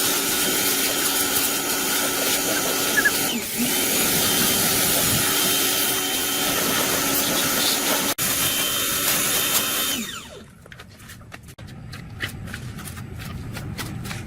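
A motor running steadily and loudly with a whining hum, stopping about ten seconds in, after which only faint clicks remain.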